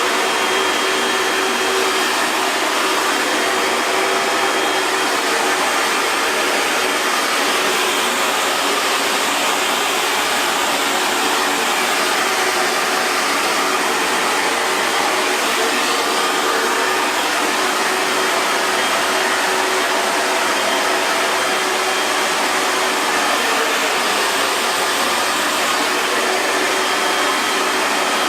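Hair dryer blowing steadily: an even rush of air with a faint motor hum, unchanging throughout.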